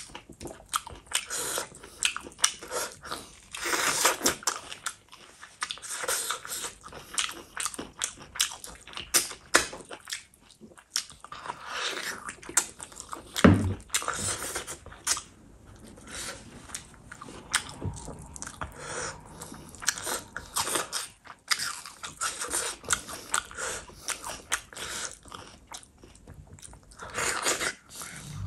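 A person chewing and biting mouthfuls of spicy mutton curry and rice eaten by hand, with many irregular short mouth clicks throughout. There is one brief thump about halfway through.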